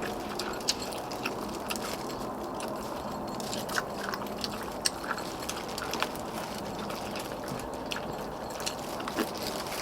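Two people eating pork-bone stew: chewing and scattered sharp clicks of utensils on bowls, over a steady background noise.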